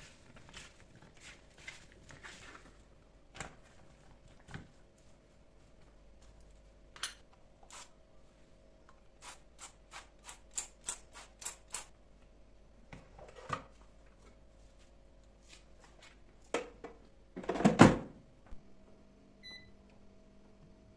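Handling of a kitchen appliance: light knocks, then a run of sharp clicks, a clunk, and a louder clatter near the end. A short electronic beep follows, and a steady hum begins, typical of the Xiaomi air fryer being set and starting to run.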